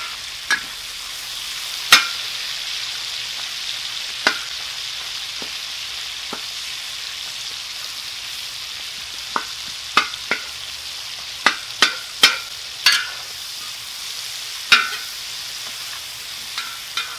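Chorizo sizzling steadily in hot bacon and sausage grease on a steel plow disc. A metal spatula scrapes and clicks against the disc as it breaks up and stirs the chorizo, with a quick run of clicks about two-thirds of the way through.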